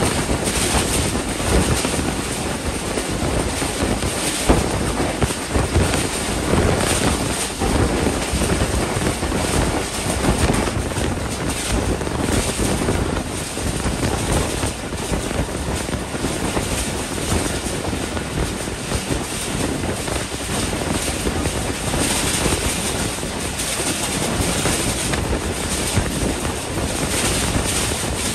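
Rushing wind and rail running noise of a moving passenger train, heard from an open carriage door, with wind buffeting the microphone. Through roughly the first half, the hopper wagons of a passing coal train add a rush and irregular clatter, which then gives way to the steady running noise alone.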